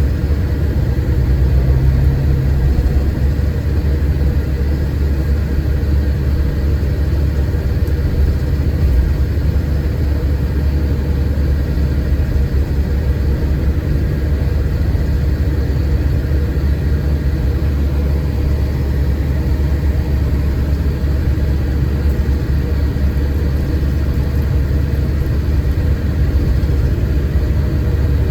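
Scania K410 coach's 13-litre six-cylinder diesel running steadily with a deep, even rumble.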